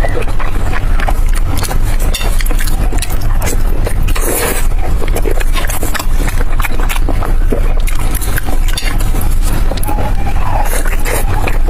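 Close-up eating sounds: food being chewed, with many irregular crackles and clicks, over a steady low rumble.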